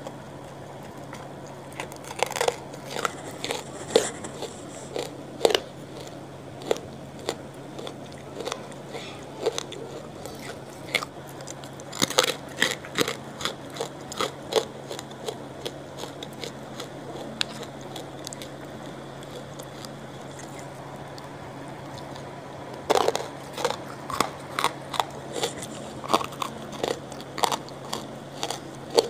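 Close-miked crunching of hard, brittle grey lumps being bitten and chewed: sharp cracks come in three runs, with quieter chewing between them.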